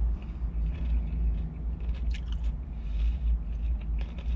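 Chewing of coleslaw, with a few clicks and scrapes of a fork in a plastic cup about two seconds in and near the end, over a steady low rumble inside the car's cabin.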